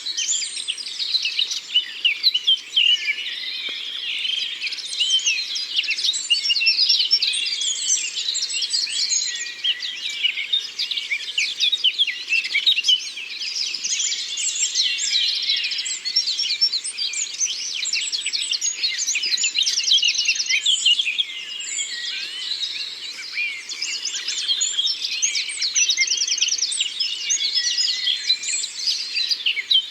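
Dawn-chorus-like mix of many songbirds singing and chirping together in a forest, a dense, continuous chatter of overlapping high chirps and quick trills.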